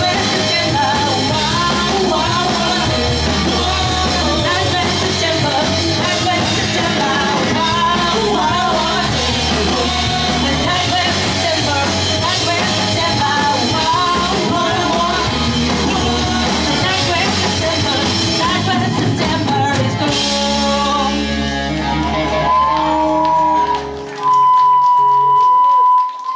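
Pop-punk band playing live, with sung vocals over loud guitars, bass and drums. About twenty seconds in the song ends on a held chord, and near the end a loud, steady high tone holds for about two seconds before cutting off.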